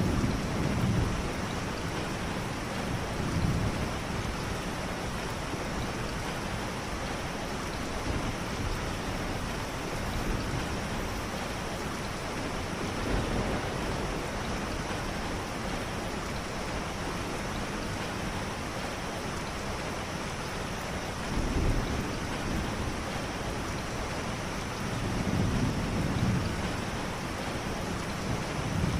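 Heavy rain falling steadily, with low rumbles swelling up several times.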